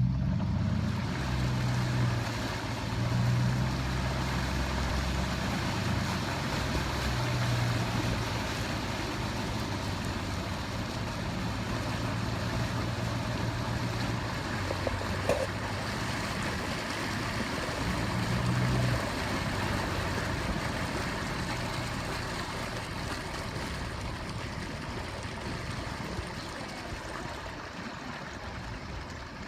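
A low engine hum that comes and goes over a steady rushing noise, the hum dropping away about two-thirds of the way through and the rushing easing slightly toward the end.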